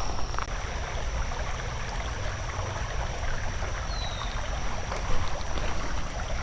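Shallow creek water running steadily, with a thin steady high tone behind it and one short falling chirp about four seconds in.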